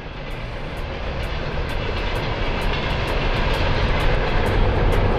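Train approaching: a steady rumbling noise that grows louder throughout.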